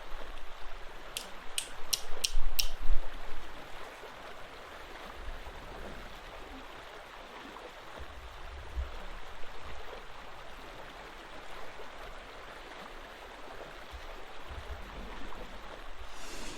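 Steady patter of rain as a background ambience, with a few quick sharp clicks in the first three seconds and occasional soft low thumps.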